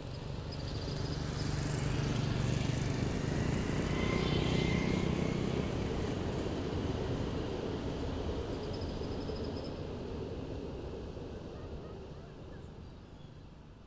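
A KTM ETS electric train running past, its rumble swelling to a peak a few seconds in and then fading away as it moves off. A motorcycle passes close by in the first few seconds.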